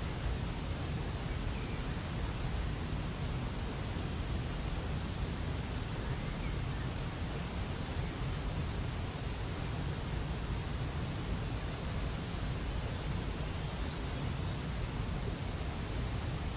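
Steady rush of falling water from a waterfall, with a small bird repeating short, high chirps over it.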